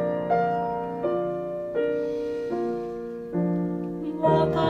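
Piano interlude between sung verses: about six gentle chords, each struck and left to fade before the next.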